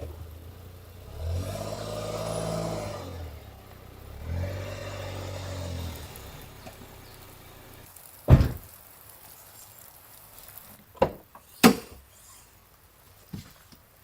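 A motor engine revving up and down twice, each rev lasting about two seconds. Then three sharp thuds, the first the loudest and the last two close together.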